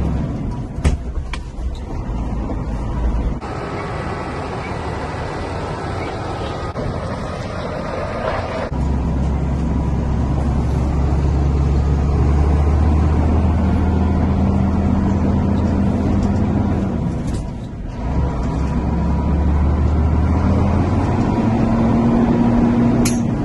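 Isuzu FVM heavy truck's diesel engine running under way, heard from the cab. The engine note changes several times, dips briefly about seventeen seconds in, then climbs again near the end.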